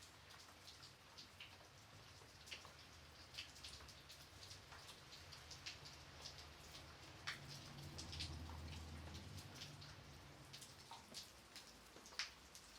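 Gentle rain, soft and faint: scattered single raindrops ticking over a steady light hiss, with a low rumble swelling for a couple of seconds about eight seconds in.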